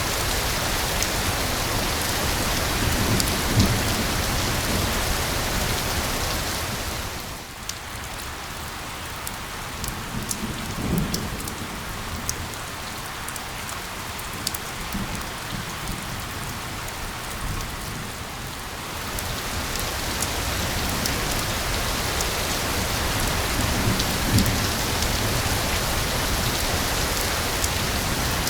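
Steady rain blended with a white-noise hiss, with low rumbles of thunder three times. The hiss drops away for about ten seconds in the middle, leaving the patter of raindrops more exposed, then swells back.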